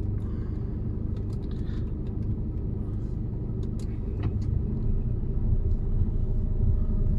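Mercedes-Benz Actros truck's diesel engine running under load as the loaded truck moves off and climbs, a steady low rumble that grows louder toward the end.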